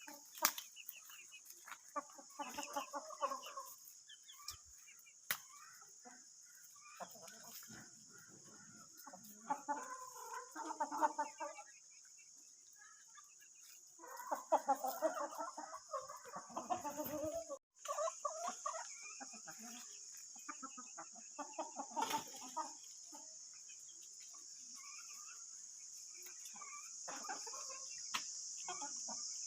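Chickens clucking in irregular bursts, busiest in several short spells, over a steady high hiss.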